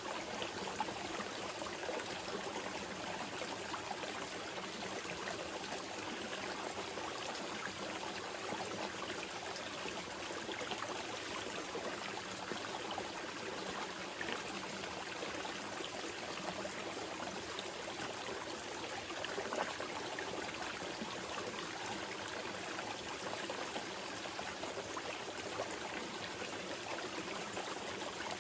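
Small mountain river flowing gently over stones, a steady babble with fine trickling.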